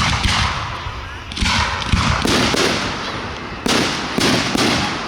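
Aerial fireworks bursting about six times in quick succession. Each bang is followed by a fading rush of noise.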